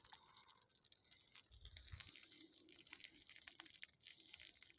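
Faint, irregular crackling of burning birch bark, with scattered small snaps and a brief low rumble about a second and a half in.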